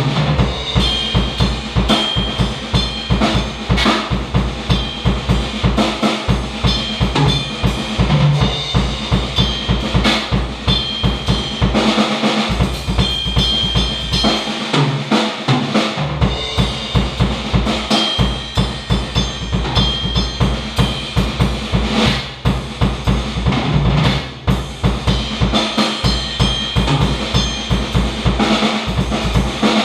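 Drum kit played continuously, with rapid, steady bass drum strokes under snare hits, with a brief break in the bass drum about halfway through.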